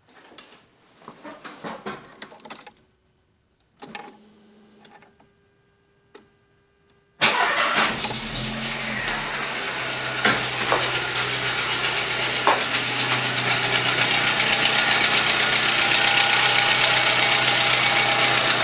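A VW Gol 1.0 8-valve engine starts from cold about seven seconds in, after a few faint clicks, then runs steadily and grows slowly louder, with a rapid ticking ("tchac, tchac"). The mechanic puts the tick down to a leaking metal exhaust manifold gasket that shrinks when cold and lets gas escape through the gaps.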